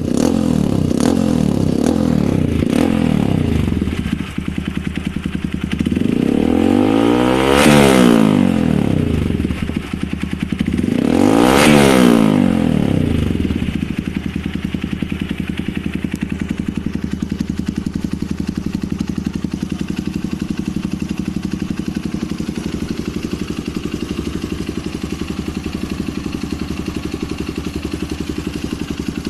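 Motorcycle running through an aftermarket Axropovic exhaust: a few quick throttle blips, then two long revs that rise and fall back, one about a quarter of the way in and one about two-fifths in, then settling to a steady idle. The exhaust note is loud and blaring.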